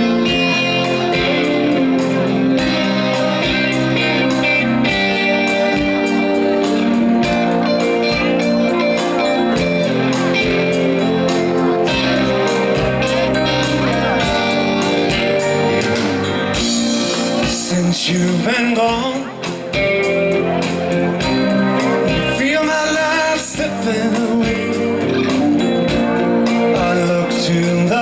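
Rock band playing live, with electric guitar and drums and singing.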